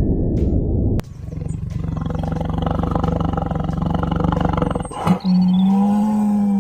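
Low-pitched large-animal calls. A low rumble cuts off abruptly about a second in, then a rough, pulsing call runs for about four seconds. After a short click, a steadier low call begins.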